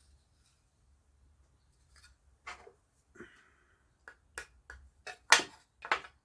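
Solid walnut drawer parts knocking and clicking together as they are handled and fitted: a couple of light knocks, then a quicker run of sharp taps, the loudest about five seconds in.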